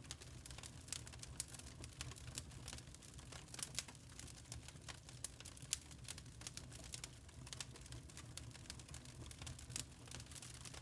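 Burning charcoal crackling: a continuous, irregular run of sharp little pops and ticks over a low steady rumble.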